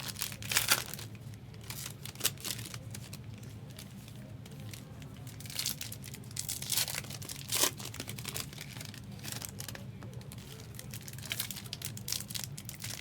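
Foil wrappers of trading card packs being torn open and crinkled in scattered short rips, over a steady low hum.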